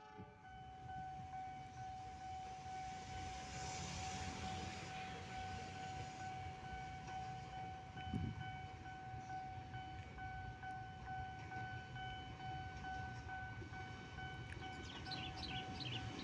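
Diesel locomotive of a container freight train approaching from a distance: a low, steady engine rumble, with a steady high-pitched tone running through it and a few faint chirps near the end.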